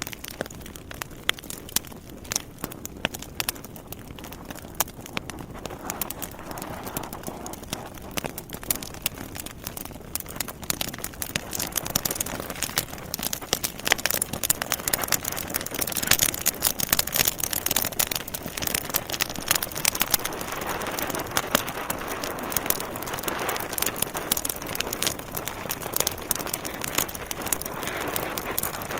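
Wood fire in a fireplace crackling, with many sharp pops and snaps over a steady hiss of burning logs, growing busier and louder about halfway through.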